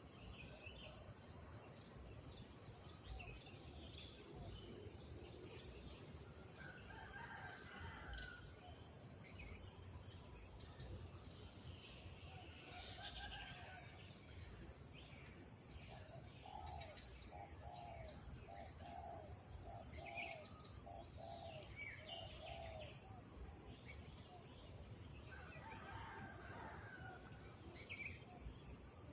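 Faint rural dawn chorus: birds chirping and calling over a steady high insect drone, with a run of about six quick repeated call notes near the middle.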